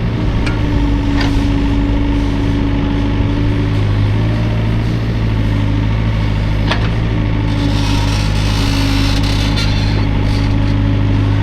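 Hydraulic excavator's diesel engine running at a steady, even pitch, with a few sharp clicks or knocks. A hiss rises over it for about two seconds after some seven seconds.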